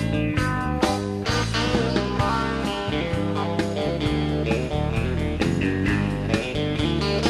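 A live country rock band playing an instrumental stretch between verses, with guitar to the fore over bass and a steady drum beat.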